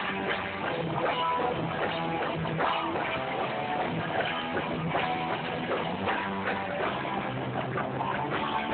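Live band playing an instrumental passage led by strummed guitar, with a steady beat and no singing, heard through a phone recording that cuts off the highs.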